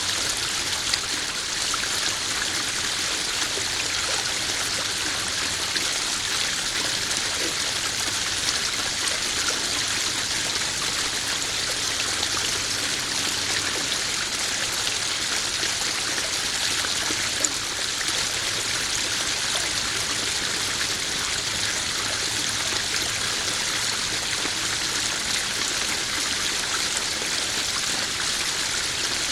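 Small backyard koi pond waterfall: water spilling and trickling steadily into the pond in an even splashing hiss.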